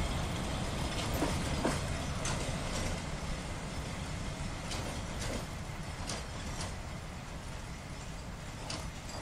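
Narrow-gauge passenger train pulling away: a low rumble with irregular clicks of wheels over the rail joints, growing fainter as it recedes.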